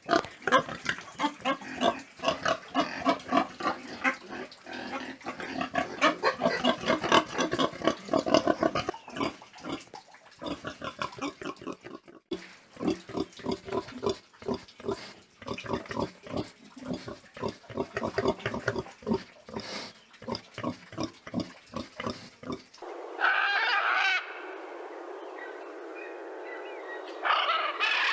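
Pigs grunting in rapid, closely packed calls for most of the time. Near the end the sound cuts abruptly to a different animal call, heard twice.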